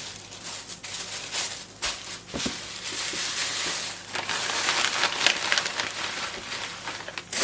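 Crinkling and rustling of deli paper sheets being handled and laid between raw chicken breast portions, with a few light clicks, louder from about four seconds in.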